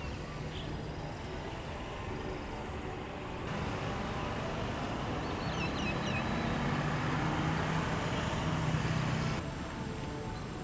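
Outdoor ambient noise, a steady mixed hum that jumps in level twice where the footage cuts, with a few short high chirps about six seconds in.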